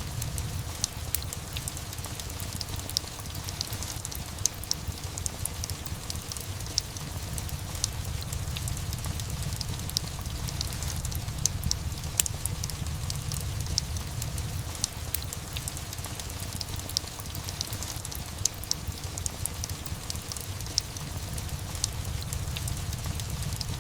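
Steady rain mixed with a crackling fireplace: a constant hiss and low rumble with frequent small sharp pops scattered throughout.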